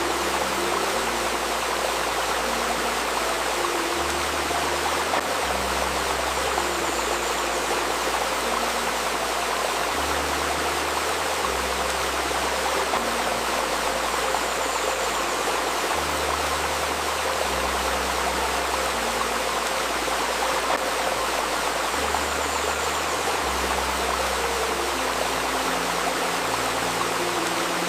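Steady rushing and babbling of a shallow river, layered with a faint sustained 528 Hz tone. Soft low tones underneath shift pitch every couple of seconds.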